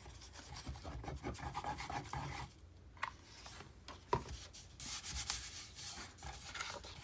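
Paper rubbing and rustling as a folded, brittle old book page is glued and pressed together by hand, with a single small click about four seconds in.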